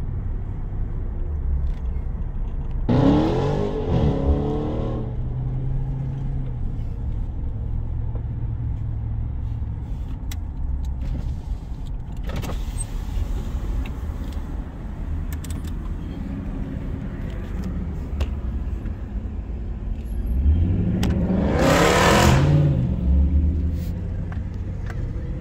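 Hemi V8 cars on the move with a steady low exhaust drone. An engine revs hard twice, a few seconds in and again near the end, each time climbing in pitch and dropping back within about two seconds.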